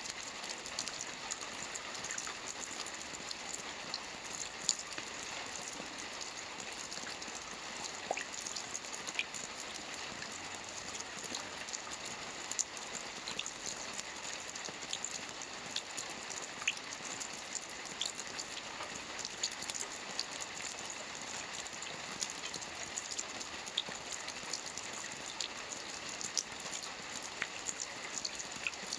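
Soft rain falling steadily on a roof: an even hiss dotted with many small, scattered drop ticks.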